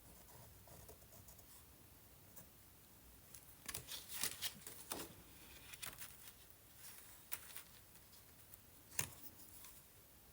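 Paper and a plastic stencil being handled on a tabletop: a few short rustles and scrapes, the loudest cluster about four seconds in, then a sharp tap about nine seconds in.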